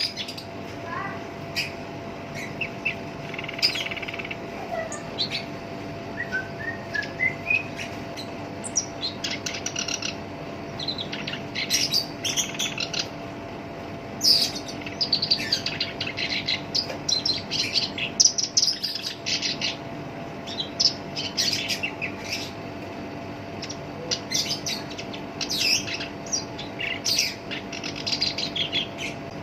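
Black-browed reed warbler singing: a run of short, fast, harsh, chattering phrases with brief pauses between them, some notes sliding upward.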